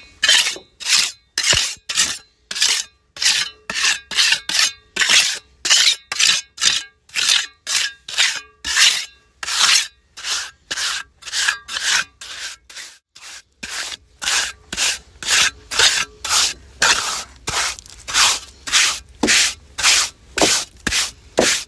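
Rhythmic rasping scrapes, about two strokes a second, with a short pause a little past halfway.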